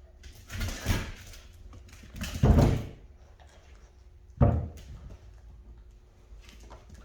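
Three dull knocks and bumps on something solid, about two seconds apart, the middle one the loudest and the last short and sharp.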